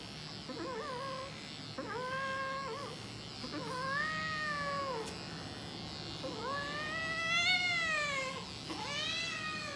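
A domestic cat yowling: about six drawn-out calls, each rising and then falling in pitch, the longest and loudest about two seconds long near the end. It is a protesting cry from a cat being held down and clipped.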